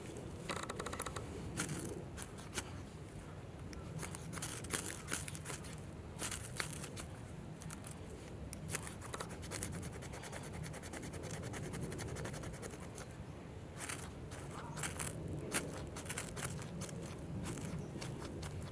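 Wood campfire crackling: irregular sharp snaps and pops over a low steady rush, in two busier spells.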